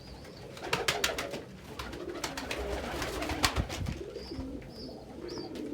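Domestic pigeons cooing in a small loft, with many sharp clicks and taps scattered through. A few short, faint high squeaks come in the second half.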